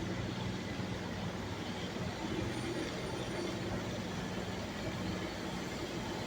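Heavy construction machinery running steadily: a low diesel engine hum over an even background noise.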